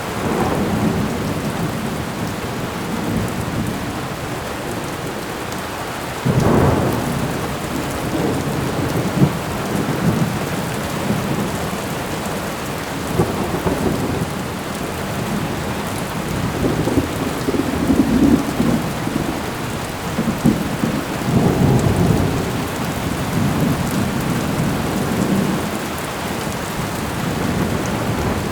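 Thunderstorm: steady rain hiss with a sudden thunderclap about six seconds in, and further long, low rolling thunder rumbles in the second half.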